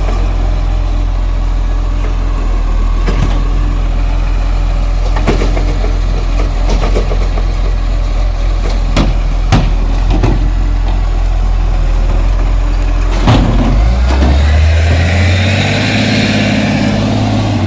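Diesel garbage truck idling with a steady low hum, with several sharp knocks, then the engine revs up about 14 seconds in with a higher whine over it.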